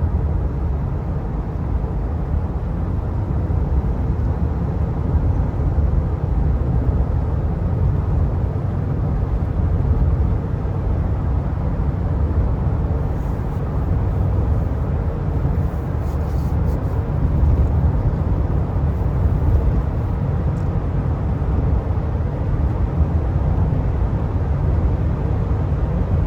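Steady low rumble of road and engine noise inside a moving truck's cab.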